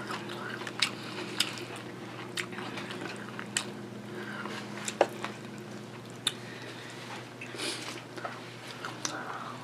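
Close-miked eating sounds: a person chewing a sub sandwich, with sharp wet mouth clicks and smacks at irregular intervals over a faint steady low hum.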